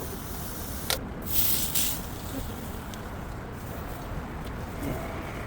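Street ambience: a steady low traffic rumble, with a sharp click about a second in followed by a brief hiss.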